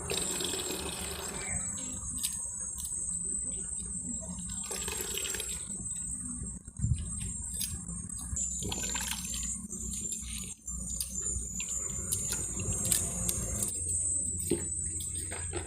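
Insects trilling steadily in a high band, with a wash of water in the first second or so and scattered short clicks and rustles after it.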